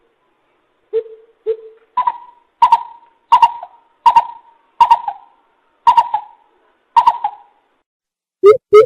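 Coucal calling in a series of hollow hoots: two deep notes, then about seven higher hoots evenly spaced under a second apart, and near the end a quicker run of deep hoots begins.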